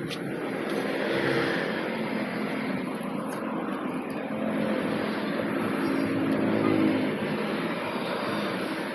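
A motor vehicle engine running steadily, its pitch wavering a little.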